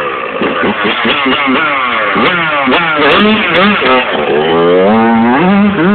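Dirt bike engine revving hard over and over, its pitch climbing and dropping, with a longer held high rev near the end.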